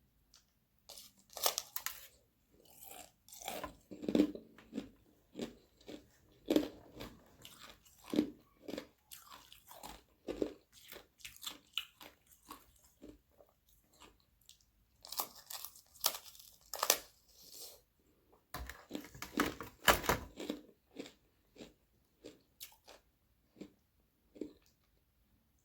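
Sheets of ice frozen from carbonated water being bitten and chewed close to the microphone: sharp cracks at each bite, then rapid irregular crunching, the loudest bites about two, sixteen and twenty seconds in.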